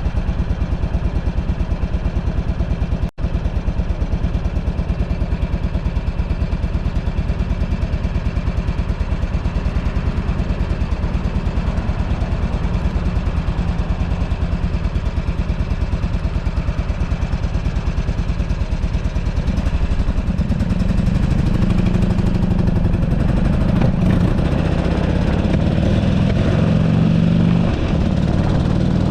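Buell Ulysses XB12XT's air-cooled V-twin running on the road, heavily buffeted by wind on the handlebar-mounted microphone. The sound drops out for an instant a few seconds in, and in the last third the engine note grows stronger and shifts up and down in steps as the throttle and gears change.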